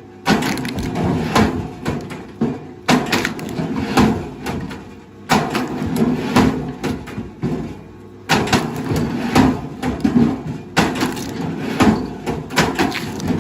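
Wood cracking and splintering in dense, irregular crackles and knocks, coming in stretches of a few seconds that each start abruptly.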